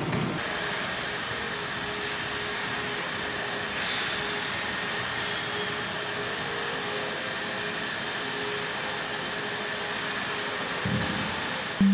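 A steady, even rushing noise with a faint hum, like air blown by a small motor.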